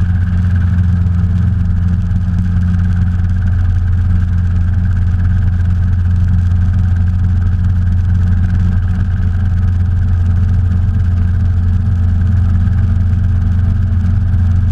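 Robinson R22 helicopter's piston engine and rotors running steadily in flight, a loud, even low drone with a higher hum above it.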